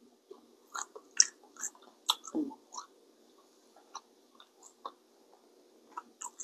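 A person chewing and biting seafood-boil food close to the microphone: irregular wet clicks and smacks, densest in the first few seconds, then sparser.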